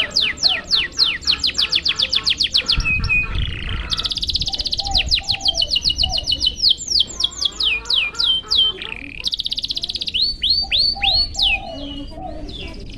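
Domestic canary singing: fast trills of high, repeated down-sweeping notes, about seven or eight a second, switching to a new phrase every second or two.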